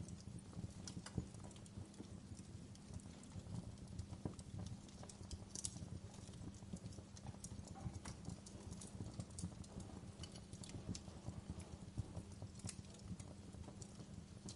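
Campfire burning, wood crackling and popping in scattered sharp clicks over a low steady rumble of the flames.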